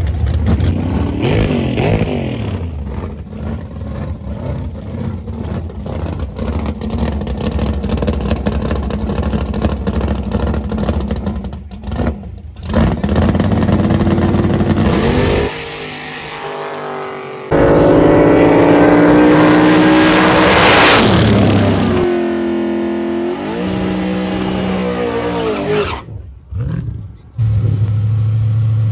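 Drag-racing car engines idling and revving, in short clips that cut abruptly from one to the next; about twenty seconds in, one engine climbs steeply in pitch as it accelerates hard.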